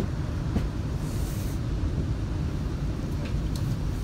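Steady low rumble of a moving passenger train, heard from inside the coach: wheels running on the track and the car body carrying the noise.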